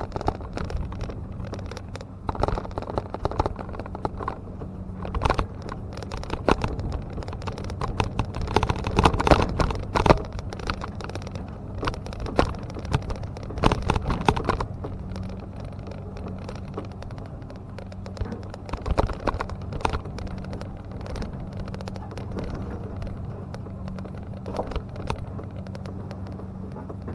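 An engine idling steadily, with many irregular clatters, knocks and scrapes over it, loudest and thickest toward the middle.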